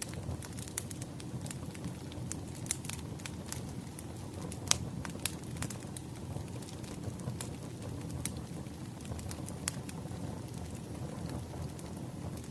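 Crackling wood fire: a steady low rumble of burning logs with scattered sharp pops and crackles, the loudest a little before five seconds in.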